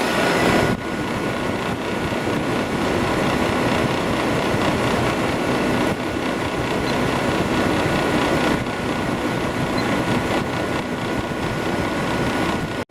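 2002 Whirlpool 5,000 BTU window air conditioner running with its Rechi compressor on and the fan on medium speed: a steady rush of air with a faint steady high whine.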